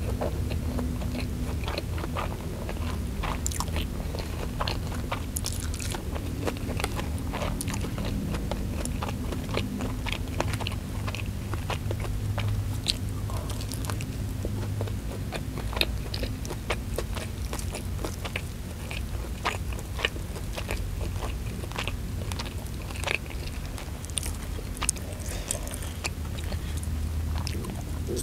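Close-miked biting and chewing of fried chicken and rice eaten by hand, full of short, sharp clicks and mouth sounds, over a steady low hum.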